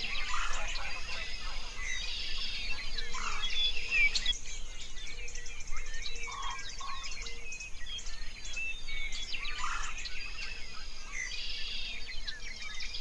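Many small birds chirping at once in a dense, overlapping chorus of short high calls, with a few lower calls now and then.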